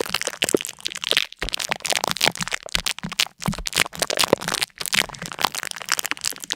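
Dense, irregular crackling and crunching, many sharp cracks in quick succession.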